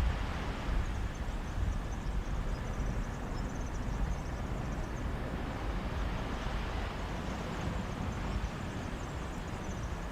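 Mediterranean sea waves washing onto a beach, a steady hiss that swells and eases gently, with a gusty low rumble of breeze on the microphone.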